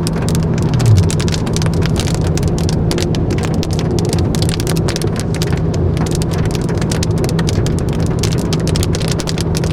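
Heavy cloudburst rain pelting a moving car, heard from inside the cabin: a dense, irregular patter of drops hitting the roof and windshield over the steady low drone of the car on the road.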